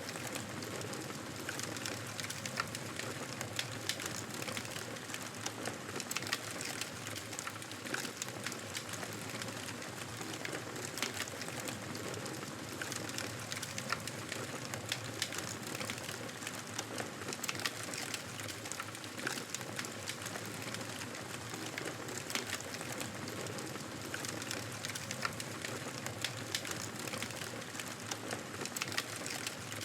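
Wood fire crackling in a fireplace: irregular pops and snaps over a steady soft hiss.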